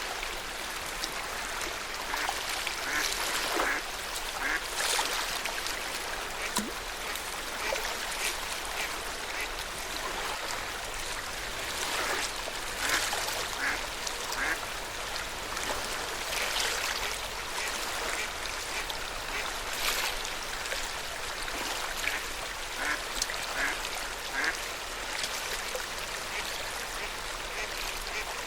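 Lake water lapping at the shore: a steady wash broken by frequent short splashes.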